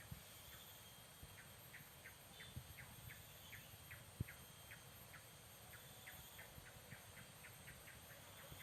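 Faint outdoor quiet with a small creature chirping in a steady series of short high chirps, about three a second. One soft knock comes about four seconds in.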